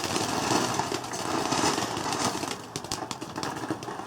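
Garden firework fountain spraying sparks: a steady hiss with scattered crackles, dying down toward the end.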